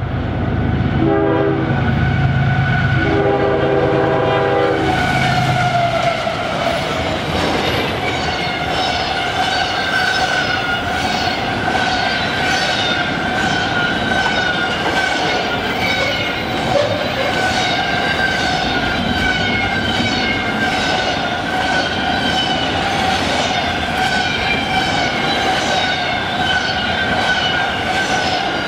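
Locomotive horn sounding a short blast and then a longer one over a diesel engine's low drone. After that the train rolls by, its wheels clattering rhythmically over the rail joints with a steady high tone above the clatter.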